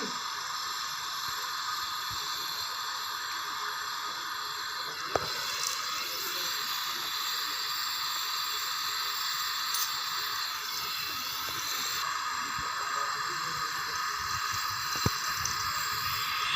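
Aluminium welding arc hissing steadily while a crack in a water-pump engine casing is patched, with a sharp click about five seconds in and another near the end.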